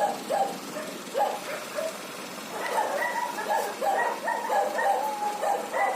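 A dog barking repeatedly in runs of short barks, coming faster from about two and a half seconds in.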